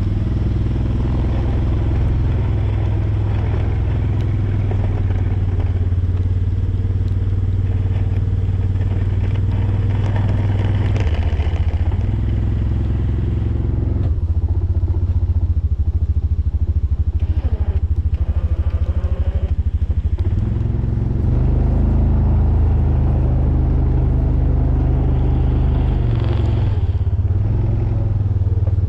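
Jeep engine running under load while plowing snow, its note shifting and rising a few times as it works back and forth.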